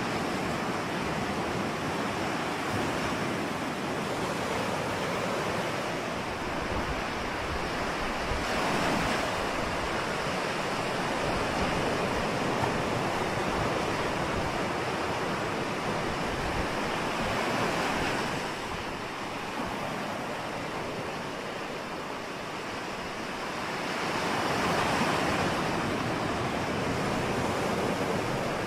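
Ocean surf: waves breaking and washing in a continuous rushing noise that swells and eases slowly over several seconds.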